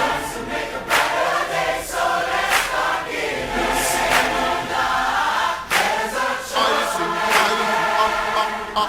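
A massed choir singing the refrain of a pop ballad over band accompaniment.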